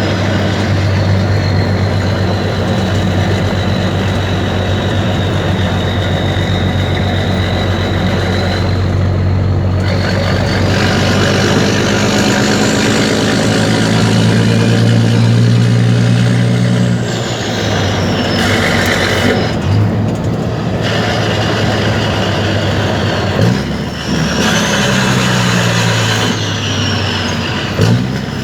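Mercedes-Benz Actros 2636's V6 diesel engine on an open, straight-through exhaust, revved up and down. The note climbs steadily for several seconds around the middle and drops off suddenly, with shorter revs near the end. A high whistle falls and rises along with the revs, and there is a short hiss a little after midway.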